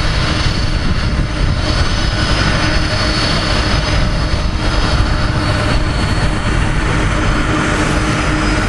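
Boeing 747 jet engines running steadily, heard from directly behind the aircraft: a loud, unbroken rumble with steady whining tones laid over it.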